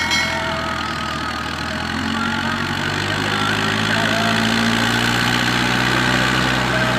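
Hindustan 50 hp tractor's diesel engine running under load. It gets gradually louder and its pitch rises a little a couple of seconds in.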